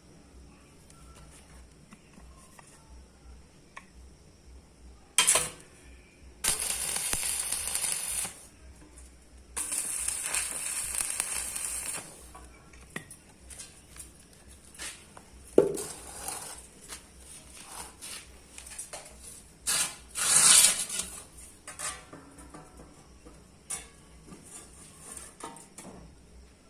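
Steel plate parts clanking as they are handled and knocked together, with a few sharp metal knocks and two hissing bursts of about two seconds each.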